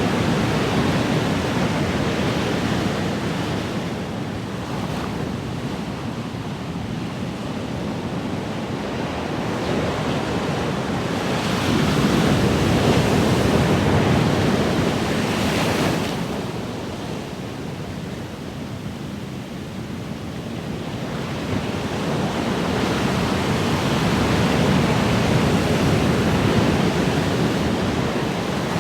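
Ocean waves: a steady wash of surf that swells and fades slowly, cresting three times, roughly every twelve seconds.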